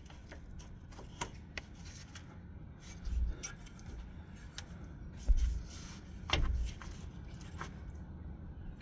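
Rubbing and scraping of a phone microphone against clothing, with scattered clicks and a few dull thumps, the loudest about five seconds in.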